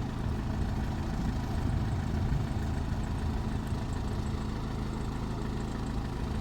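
An engine running steadily at low speed, a continuous low rumble with a steady drone.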